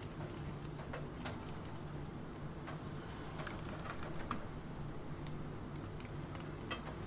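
Computer keyboard typing: scattered, irregular keystrokes, about ten clicks with pauses between them, over a steady low rain-like background noise.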